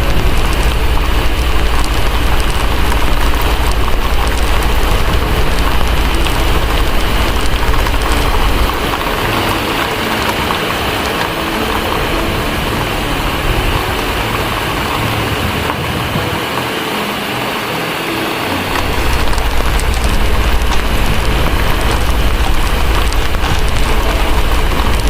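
Steady heavy rain with a wood fire crackling in the fireplace. A deep low rumble underneath drops away about a third of the way in and comes back about three quarters through.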